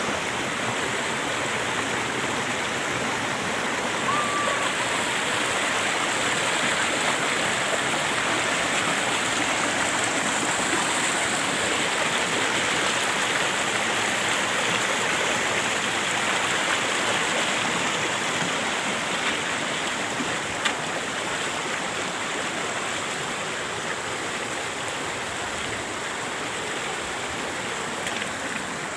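Waterfall and stream water rushing steadily, an even, dense hiss, with one short click about twenty seconds in.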